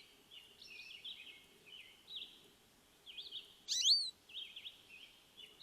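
Small songbirds calling: soft chirps for the first few seconds, then a louder, quick call of a few sweeping high notes about two-thirds of the way in.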